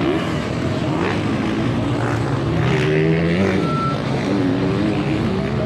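Motocross dirt bike engines revving on the track, several at once, their pitch rising and falling as riders work the throttle.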